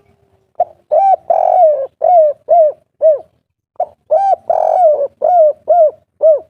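Spotted dove cooing its 'kuk 3' song: two phrases of about six short coos each, with a brief pause between them.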